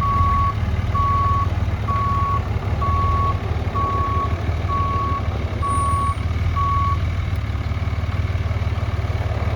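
A truck engine running steadily, with a backup alarm beeping at one steady pitch about once a second. About eight beeps sound, then they stop roughly seven seconds in while the engine runs on.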